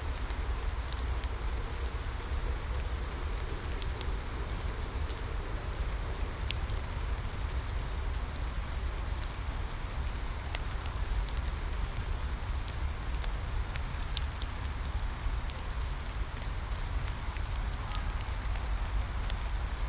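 Steady rain falling, with a crackling bonfire: scattered sharp pops and snaps over the even hiss of the rain and a low rumble.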